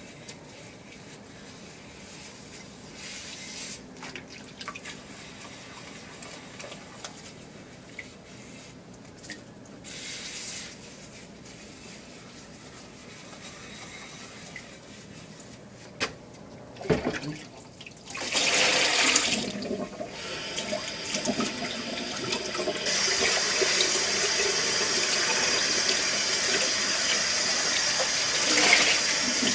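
Dishwasher running: a quiet stretch with a few faint clicks and knocks, then a couple of sharp clicks about two-thirds of the way in, followed by water rushing and spraying inside the tub, a steady hiss that swells louder a few seconds later.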